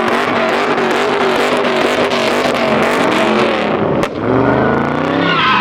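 Car engine revving hard, its pitch swinging up and down, with tires squealing in a burnout. There is a brief drop in the sound about four seconds in, then the revving picks up again.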